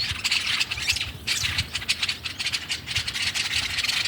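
A flock of small birds chattering and twittering together in a dense, rapid, rattling chorus, agitated after a nest fell.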